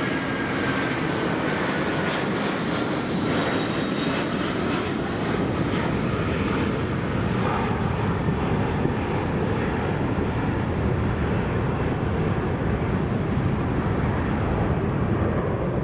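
Jet engines of a British Airways Boeing 747 at takeoff power: a steady, loud, deep rumble. The high hiss thins out near the end as the airliner draws away.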